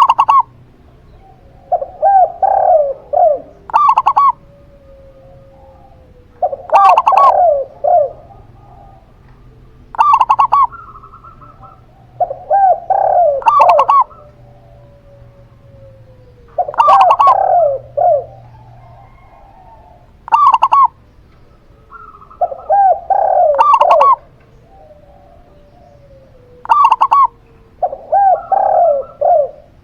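A zebra dove (perkutut) and a spotted dove (tekukur) cooing in turn, one coo phrase every two to four seconds. Short, higher coos alternate with longer, lower multi-note phrases.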